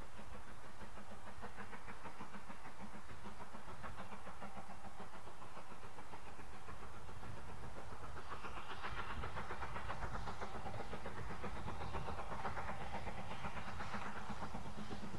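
Railway train running: a steady low rumble, with a brighter rushing noise that swells in waves from about halfway through.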